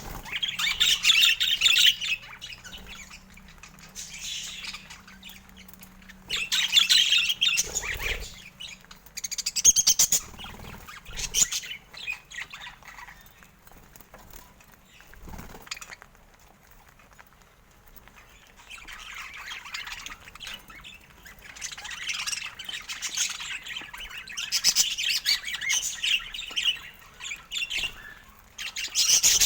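Budgerigar chatter in short bursts of a second or two, then a longer, busier run of chatter through the second half.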